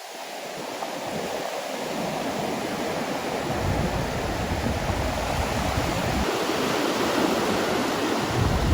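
Ocean surf washing on a beach, swelling louder over the first couple of seconds, with wind rumbling on the microphone from about halfway in.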